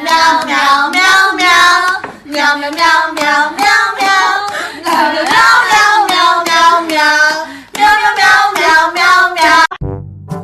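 A high voice singing a quick, rhythmic tune in short repeated phrases. It cuts off abruptly near the end, where brass-band music begins.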